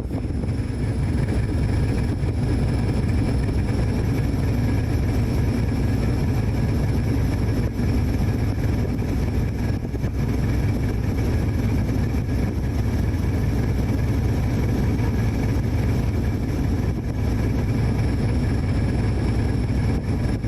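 Steady low engine rumble of a vehicle, running evenly without revving.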